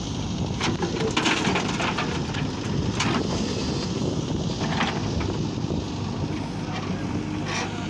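Heavy diesel earth-moving machine's engine running steadily while working a field, with irregular crunches of earth being moved about a second, three, five and seven and a half seconds in.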